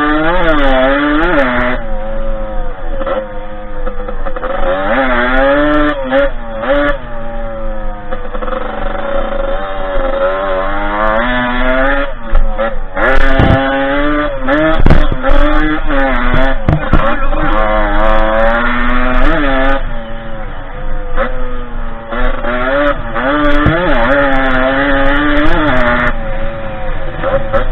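Derbi 50cc two-stroke dirt-bike engine under way, its pitch rising as it revs up and falling back, over and over. A few sharp knocks come in the middle.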